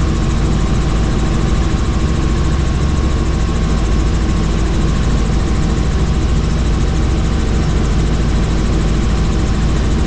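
Helicopter in flight: a steady, loud turbine and rotor noise with a fast, low rotor beat.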